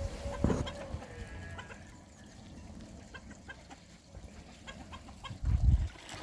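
Domestic chickens clucking, with a long held call trailing off in the first second and short calls scattered after it. A loud low rumble near the end.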